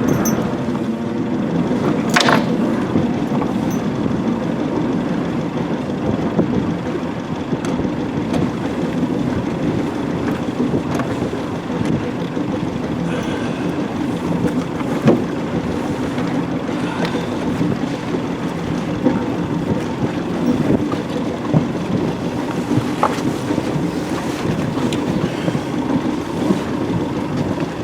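Wind buffeting the microphone over the rush of water along the hull of a sailboat under way, a steady loud noise. There is a sharp knock about two seconds in, and a few lighter ticks later.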